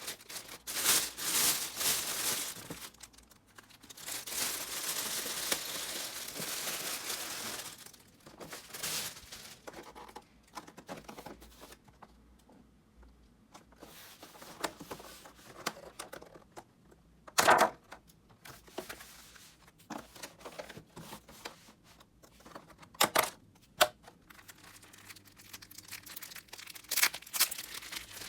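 Handling noises of packing food: crinkling and rustling, with a steady stretch a few seconds in and scattered clicks later, broken by two sharp knocks.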